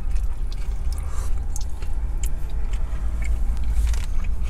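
Close-miked eating sounds: chewing and a scatter of small sharp clicks from cutlery and mouth, over a steady low rumble inside the car.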